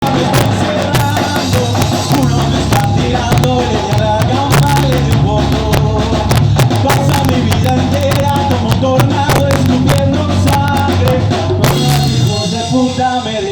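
Live ska band playing, poorly recorded: drum kit, bass and melodic lines. The drums and bass stop about twelve seconds in.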